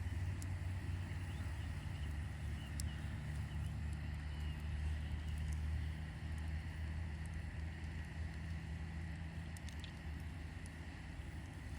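Campfire burning, with a few sharp crackles over a steady low rumble.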